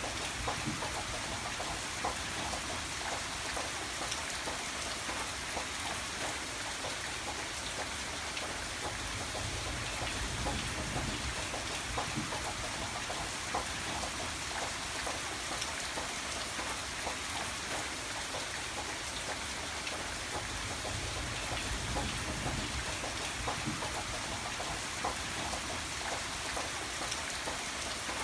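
Steady rain falling, an even hiss with a dense scatter of small sharp ticks throughout, over a low rumble that swells and eases every few seconds.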